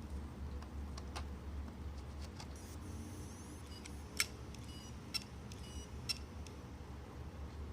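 Seagate laptop hard disk clicking: several sharp clicks, the clearest three about a second apart in the second half, over a low steady hum. Repeated clicking like this is typical of a failing drive's read heads.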